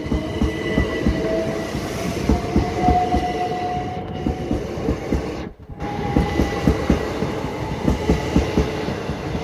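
Class 375 Electrostar electric multiple unit passing close by, its wheels making a fast, continuous clatter over the rails, with a faint steady whine above it. The sound briefly drops out about five and a half seconds in.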